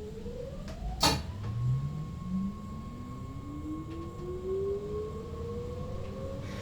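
Electric train's traction motors whining as it accelerates, several tones rising steadily in pitch over a low running rumble. A sharp click comes about a second in.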